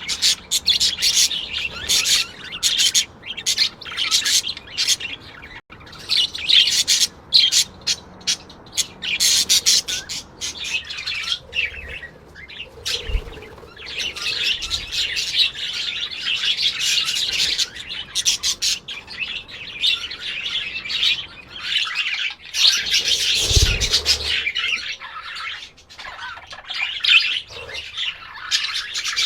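A group of small birds chirping and squawking in constant, overlapping chatter.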